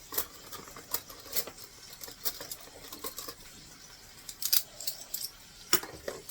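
Light metallic clinks and clatter of cutlery being rummaged through and handled, with a few sharper clacks near the end.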